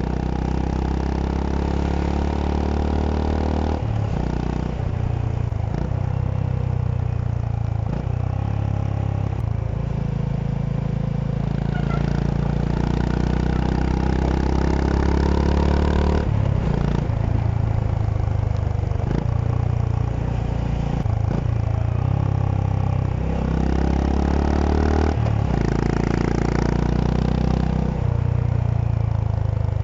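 Honda CB350 H'ness single-cylinder engine running under way, the engine note climbing and then dropping sharply every few seconds as the rider changes throttle and gears.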